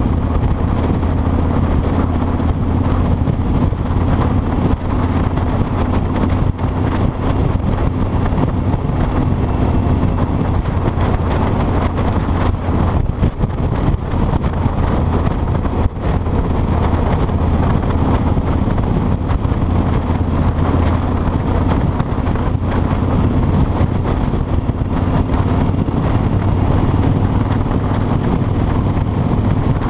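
Kawasaki Vulcan 2000's 2-litre V-twin engine running at a steady cruise, mixed with wind rushing over the microphone.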